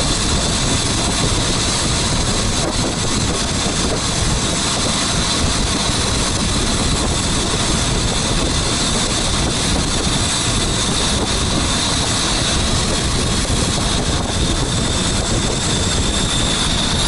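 A boat's engine running steadily under way on a river, a loud unbroken drone with the rush of water and air mixed in.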